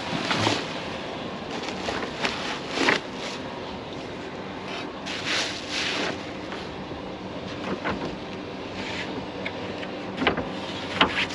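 Rummaging through discarded items: intermittent rustles and knocks over a steady low hum.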